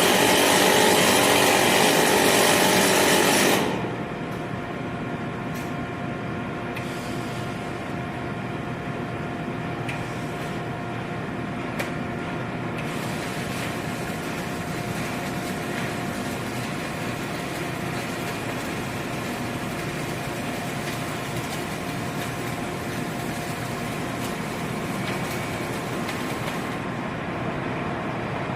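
A loud power tool runs and cuts off suddenly about three and a half seconds in. After it, steady factory machinery hum with a thin constant tone carries on.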